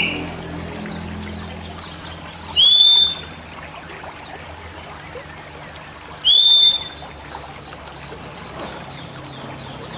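Oriental magpie-robin (kacer) giving two loud, clear whistled notes a few seconds apart, each about half a second long, swooping up and then held. A steady low hum and faint chirps sit underneath.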